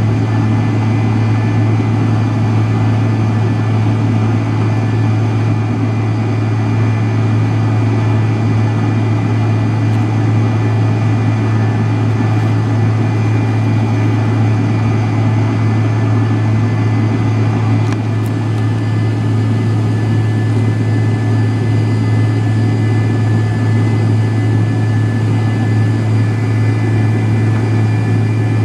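Cabin noise of an MD-83 airliner heard from a rear window seat: the tail-mounted Pratt & Whitney JT8D-200 turbofans running steadily. There is a constant deep hum under a loud rushing drone, with faint thin whining tones on top and no rise or fall in pitch.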